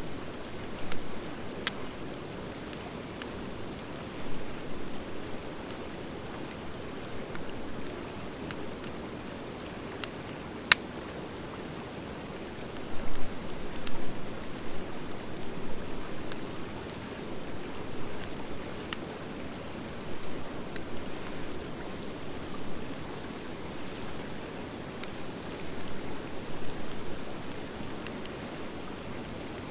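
Campfire of driftwood and dry hardwood logs burning: a steady rush of flames with scattered crackles, one sharp pop about eleven seconds in, and louder bursts of crackling now and then.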